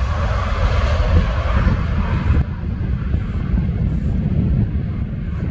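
Jet airliner's engines roaring at takeoff power, with a heavy low rumble. The higher part of the roar falls away about halfway through, leaving the deep rumble.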